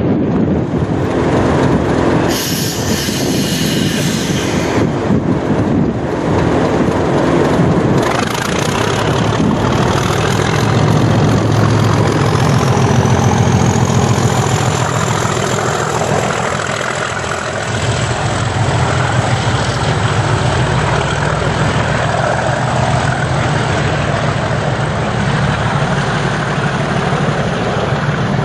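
Class 37 diesel locomotive's English Electric V12 engine running under load, with a high whine rising in pitch about ten seconds in and then holding. A hiss lasting about two seconds comes a couple of seconds in.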